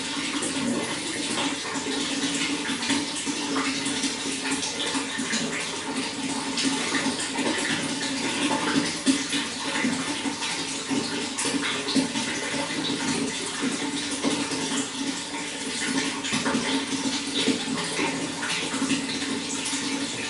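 Running water flowing steadily, a continuous rush dotted with small splashes.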